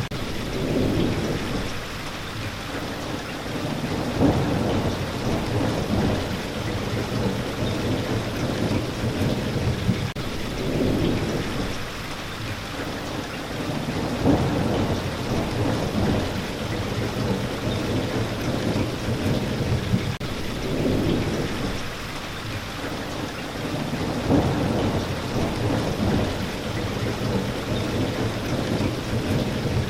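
Steady rain hissing continuously, with low rumbles of thunder that swell and fade again every few seconds.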